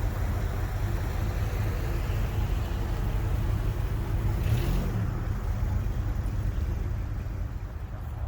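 Car engine running at low speed as it rolls by, a steady low rumble, with a brief hiss about four and a half seconds in.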